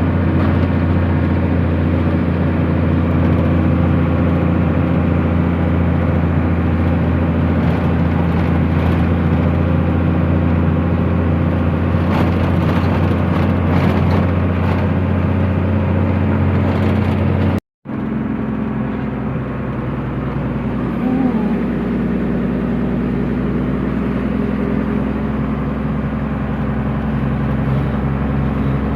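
A truck engine running steadily under way: a continuous low drone with road noise. It cuts out for an instant about two-thirds of the way through, then resumes steady with a slightly different tone.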